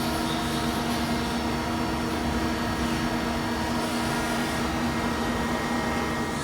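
Mazak QT30 CNC lathe spindle drive running at a steady speed: a constant mechanical hum with several steady tones.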